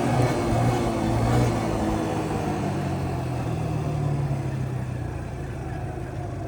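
Yamaha Grizzly 125 ATV's single-cylinder engine running, its pitch falling and its level easing off as the throttle is let off and the quad slows.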